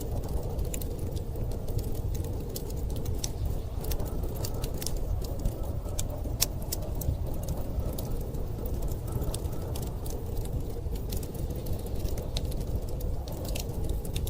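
Wood fire crackling, with frequent sharp snaps and pops, over a steady low rumble of blizzard wind.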